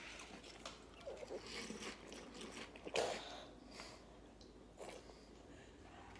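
Faint chewing of a mouthful of crunchy Chocolate Toast Crunch cereal squares, scattered small crunches, with one louder sharp sound about three seconds in.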